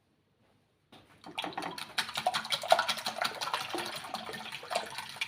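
Raw eggs being beaten by hand in a bowl: a utensil clicks rapidly against the bowl through the sloshing liquid. It starts about a second in.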